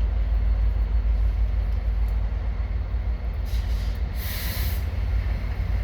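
Idling diesel freight locomotive with a steady low rumble. About three and a half seconds in come two short bursts of air hiss, typical of a waiting train's air brake system venting.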